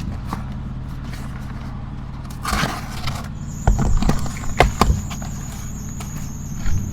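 Steady low hum of a neighbouring truck's generator running, with a rustle about two and a half seconds in and a quick run of knocks and clatters a second later as items are handled.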